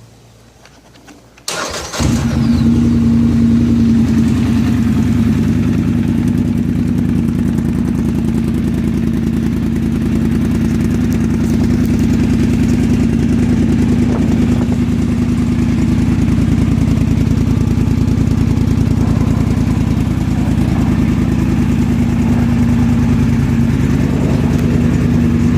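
2012 Polaris 850 XP Touring ATV's twin-cylinder engine, fitted with a Speedwerx aftermarket exhaust, cranked by the starter and catching about two seconds in. It then idles steadily with an even low drone.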